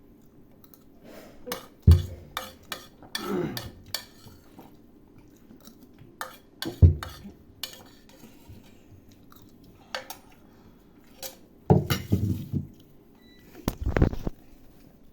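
Cutlery knocking and scraping against a plate, with chewing of noodles in between. The knocks come irregularly: the sharpest about two and seven seconds in, and a cluster of them near the end.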